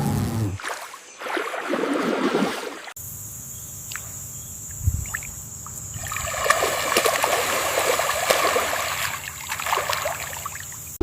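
Water trickling and sloshing, with a steady high thin tone. The sound changes abruptly about three seconds in, then swells in the second half.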